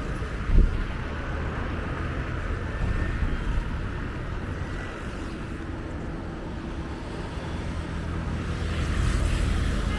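Street traffic: a steady rumble of passing vehicles, with a single knock about half a second in and the traffic growing louder near the end.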